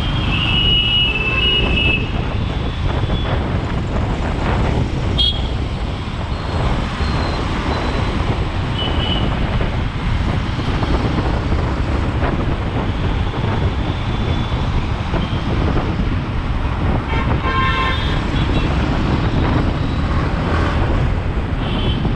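Yamaha MT-15 motorcycle under way in traffic: a steady rush of engine, road and wind noise on the camera's microphone. Other vehicles' horns toot briefly several times, clearest near the start and about eighteen seconds in.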